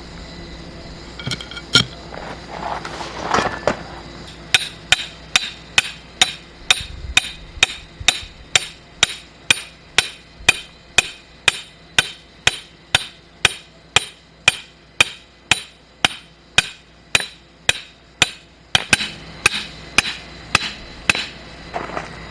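Steady hammering: sharp, ringing strikes at a little over two a second for about fourteen seconds, with a few irregular strikes before and after the run.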